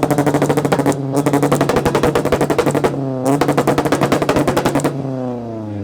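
A modified engine held against a two-step launch rev limiter, its exhaust popping in a rapid machine-gun-like crackle. It comes in three long bursts, the revs dipping briefly between them, and falls away near the end.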